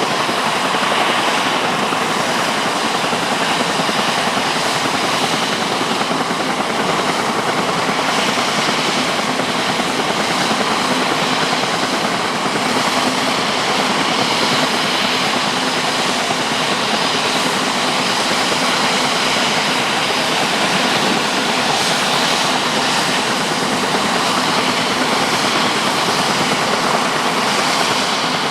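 Sikorsky S-76C twin-turbine helicopter running steadily: a constant rush of rotor and turbine noise with a faint high whine and no pauses.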